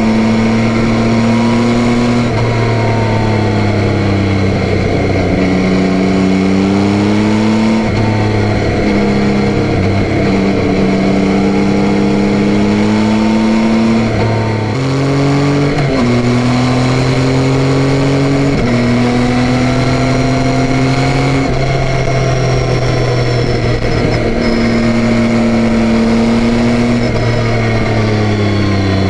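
2021 Yamaha Tracer 9's 890 cc inline three-cylinder engine running on the move, its note rising and falling with throttle and stepping in pitch several times with gear changes, over a steady rush of wind and road noise.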